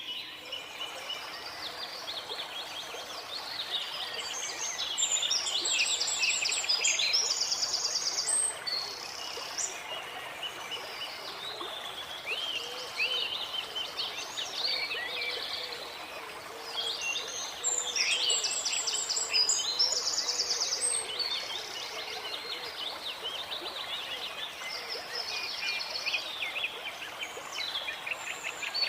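Several songbirds singing and chirping over a steady rush of running water. The singing grows busier and louder twice, about five seconds in and again past the middle.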